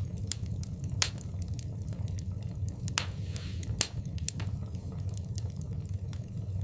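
Wood fire burning in a fireplace: irregular sharp crackles and pops over a steady low rumble, with one loud pop about a second in.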